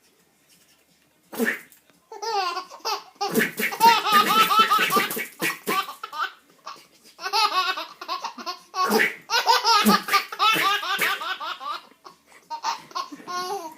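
A baby laughing hard in several long bouts of high, bubbling laughter, with short breaks between them.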